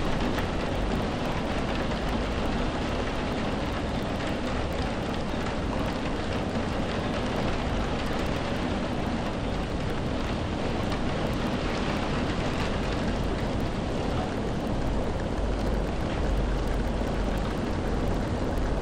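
Steady rain falling, an even hiss with a low rumble underneath that swells a little near the end.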